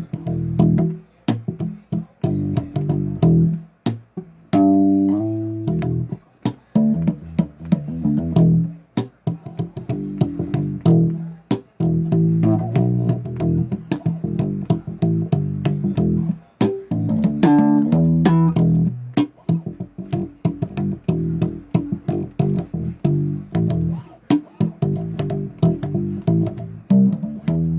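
Electric bass guitar played solo: a continuous run of quick plucked riffs in the low register, with sharp finger and fret attacks and a couple of fast climbs up the neck.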